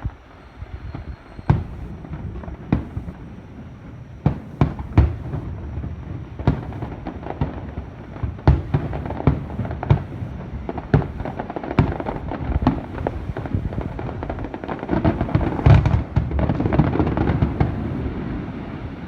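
Aerial fireworks bursting: a series of irregular booms, more than a dozen, with a denser run of crackling bursts about fifteen seconds in, where the loudest boom falls.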